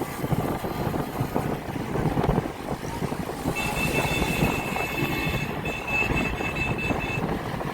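Road-riding noise: wind buffeting on the microphone over vehicle traffic, with a steady high whine from about three and a half seconds in until about seven seconds.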